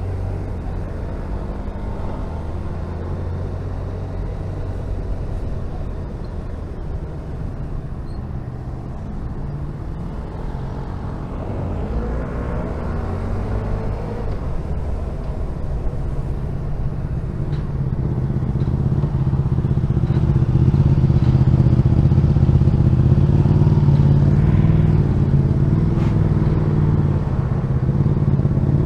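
Honda VFR1200F's V4 engine running through traffic, heard from on the bike over wind and road noise. Partway through, the revs swing up and down; the engine note then settles and grows louder and steady for the rest of the stretch.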